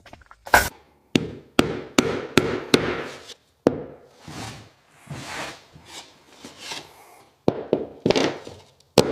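Hand-tool work: a run of sharp knocks and taps, then several longer scraping or rubbing strokes, then more knocks near the end.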